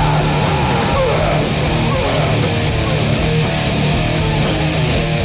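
Live hardcore punk band playing at full volume: distorted electric guitars, bass and fast drums with steady cymbal hits.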